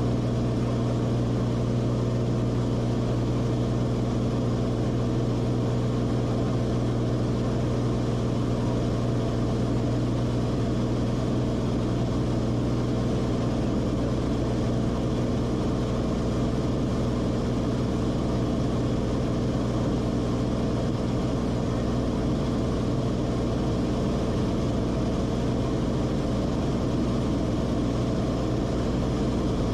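Cessna Corvalis TTX's turbocharged six-cylinder engine and propeller running at a steady setting, an even droning hum with a strong low tone and no change in pitch or level.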